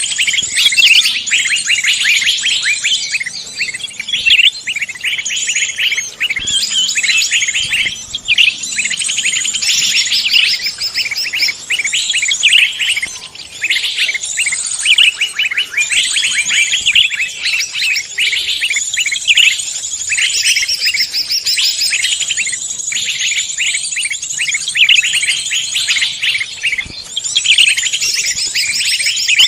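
A dense chorus of songbirds singing and chirping over one another, rapid trills and whistles overlapping without pause.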